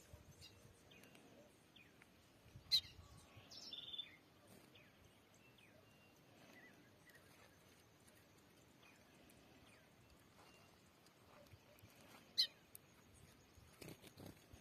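Small bird giving faint, scattered short chirps, with two sharper, louder chirps, one about three seconds in and one about twelve seconds in, and a brief call just before four seconds.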